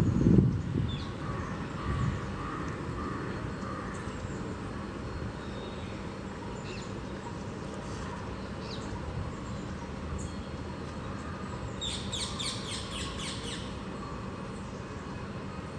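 Small birds chirping: scattered short high calls, then a quick run of rapid chirps about twelve seconds in. A brief low rumble sounds at the very start.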